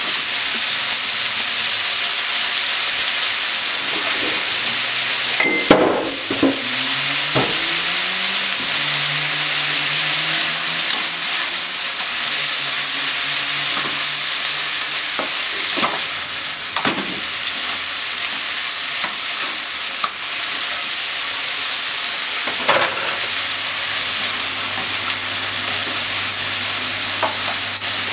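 Diced chicken, onion and corn sizzling in a hot frying pan, stirred with a spatula that knocks and scrapes against the pan now and then, the sharpest knock about six seconds in.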